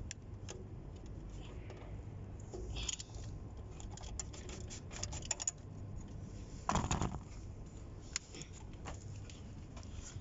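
Scattered light metallic clicks and clinks of hand tools being handled while working on a car, with one louder clatter about seven seconds in, over a steady low hum.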